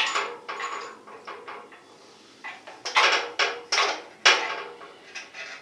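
Small metal parts of a gas water heater's burner assembly clinking and knocking as they are handled and fitted, in irregular clusters of sharp rattling clicks, busiest in the second half.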